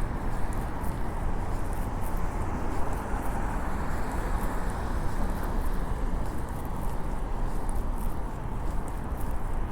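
Steady outdoor city ambience: a low, even rumble with faint scattered high crackles.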